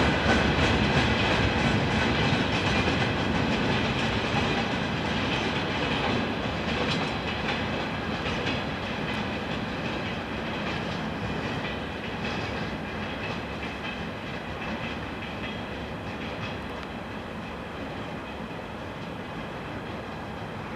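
Train behind a 2M62 diesel locomotive rolling past, its wheels clacking over the rail joints. It grows steadily fainter as it moves away.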